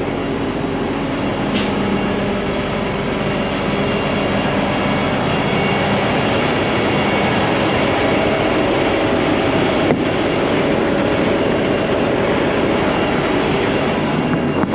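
Heavy diesel truck engine running: a steady, loud drone with engine tones under road and machine noise, and one sharp click about ten seconds in.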